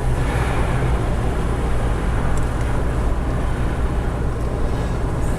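Steady rumble of a car driving along a paved road, heard from inside the cabin: engine and tyre noise.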